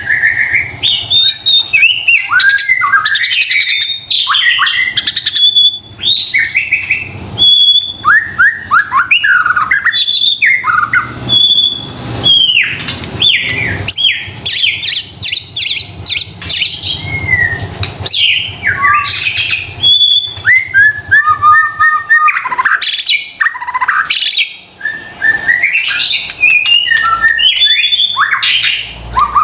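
White-rumped shama (murai batu) singing loudly and without pause: a fast, varied run of whistles, quick rising and falling notes, trills and sharp clicks.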